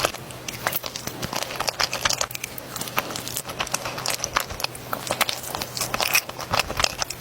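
Close-miked eating sounds: biting and chewing Nutella crepe rolls, a dense run of irregular wet clicks and crackles from the mouth.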